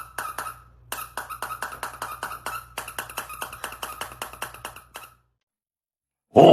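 A rapid, even run of short squeaky clicks, about four to five a second, stopping about five seconds in. A loud, voice-like sound starts right at the end.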